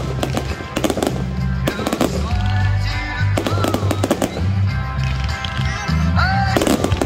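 Fireworks display: repeated sharp bangs and crackles of aerial shells bursting, over loud music with a heavy bass line.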